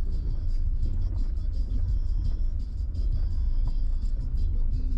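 Car on the road: a steady low rumble of engine and road noise.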